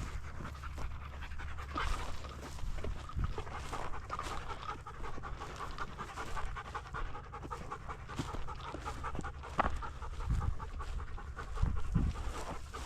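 Labrador retriever panting rapidly and steadily, close by.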